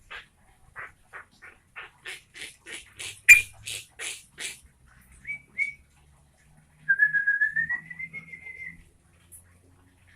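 Yellow-vented bulbul singing: a run of short chattering notes, about three a second, growing louder, then two brief notes and one long, slightly rising whistle.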